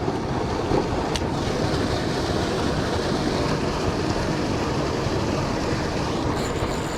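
Loud, steady rush of creek water pouring over a spillway, an unbroken roar of white water.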